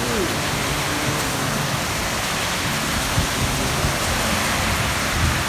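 Heavy rain pouring down in a thunderstorm, a dense, even hiss that holds steady throughout.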